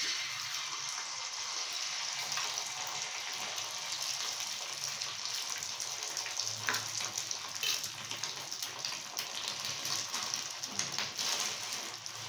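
Oil and beaten egg mixture sizzling steadily on a hot flat griddle (tawa), starting suddenly, with a few light utensil clicks against the pan.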